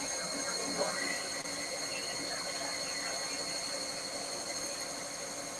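CNC machine running a machining program: a steady high-pitched whine of several tones over a constant hiss and a low hum.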